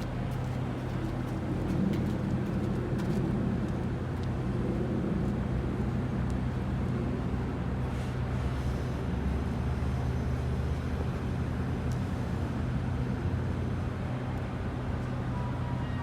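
GO Transit commuter train's diesel locomotive running steadily with an even low hum.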